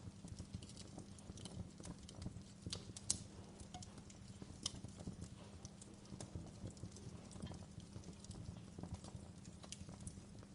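Wood log fire crackling in a fireplace: irregular sharp pops and snaps, the loudest about three seconds in, over a low steady rumble.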